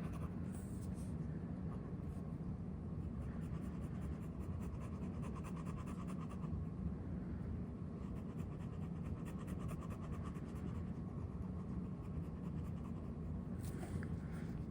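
Ink swatch being coloured in on paper: a steady, soft scratching of strokes over a low hum.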